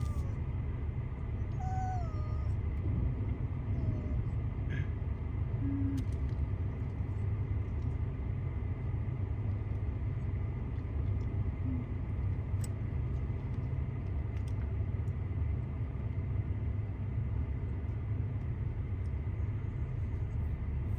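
Steady low vehicle rumble of an off-road truck crawling or idling on a rocky trail, with a few faint clicks and short squeaks.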